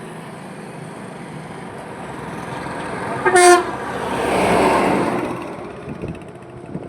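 Highway traffic with a vehicle horn giving one short blast about three seconds in. Right after it a vehicle passes close, its noise swelling and fading.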